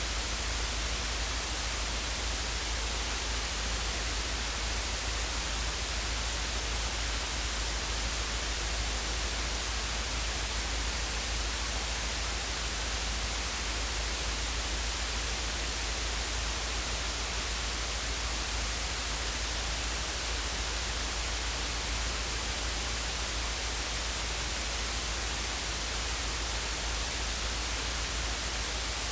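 Steady, unbroken cockpit noise of a Luscombe light aircraft in flight: an even hiss with a deep rumble underneath, no distinct engine note standing out.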